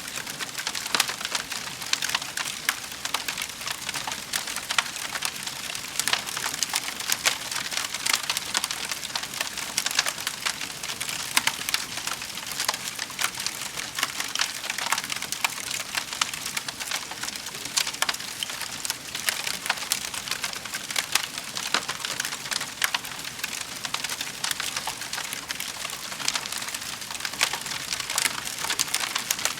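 Wood fire burning in a fireplace, crackling with a dense, constant patter of small pops and snaps.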